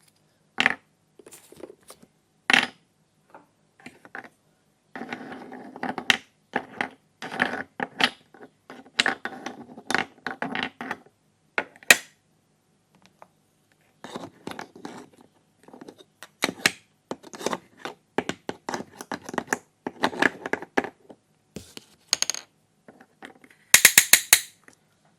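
Small plastic toy kitchen pieces being handled: an irregular run of clicks, taps and rattles, with a brief sharp rattle near the end.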